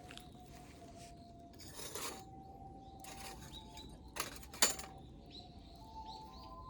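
Soft recorder music, a run of held, pure-sounding notes stepping up and down in pitch. It is broken by a few sharp clinks and knocks, the loudest about four and a half seconds in.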